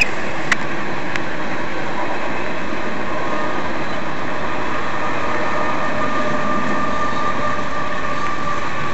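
Union Pacific coal train's hopper cars rolling past a grade crossing, a steady rumble of steel wheels on rail heard from inside a car. A few sharp clicks come in the first second, and a faint steady high whine joins about halfway through.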